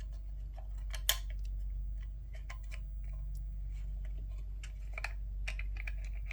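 Small plastic headset parts being handled and fitted together: scattered light clicks and taps, one sharper click about a second in, over a steady low hum.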